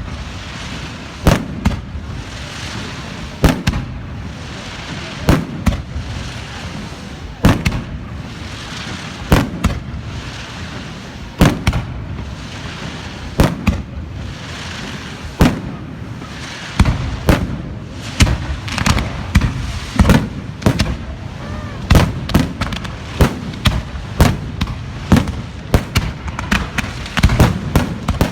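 Fireworks display: sharp bangs about every two seconds, coming faster and overlapping through the second half, with a crackling hiss between the bursts.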